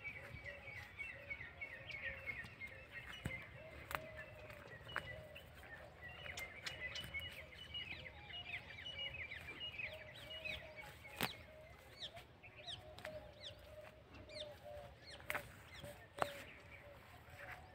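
Birds chirping outdoors, a steady run of short, quick chirps with a lower wavering call beneath them, and a few sharp clicks along the way.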